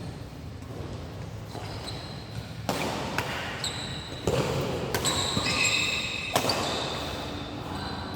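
Badminton rally on an indoor court: about four sharp racket strikes on the shuttlecock in the middle of the stretch, with short high-pitched squeaks of shoes on the court floor.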